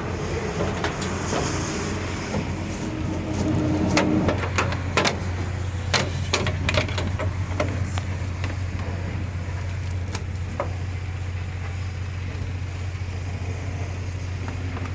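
A motor runs with a steady low hum. A run of sharp knocks and clanks comes a few seconds in, and a single click follows later.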